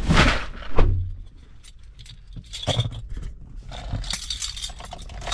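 Handling noises: scattered knocks and clicks with a heavier thump about a second in, and a metallic jingling near the end like keys or small hardware.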